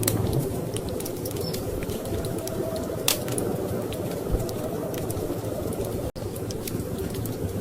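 Wood fire crackling, with scattered sharp pops and ticks over a steady low rush of storm wind. The sound cuts out for an instant about six seconds in.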